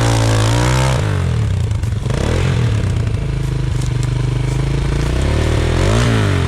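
Single-cylinder enduro motorcycle engine revving hard under throttle, its pitch climbing and dropping with the throttle, with some clattering.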